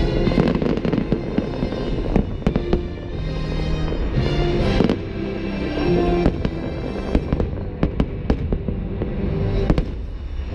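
Fireworks going off in quick succession, many sharp bangs and crackles, over the show's music soundtrack.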